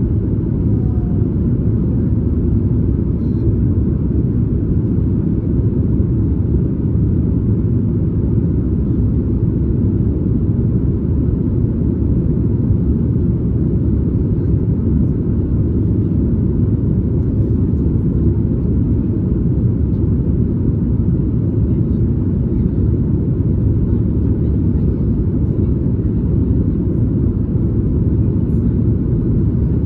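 Steady low rumble of a Boeing 737 MAX 8 in flight, heard inside the cabin: airflow and the CFM LEAP-1B engines running evenly.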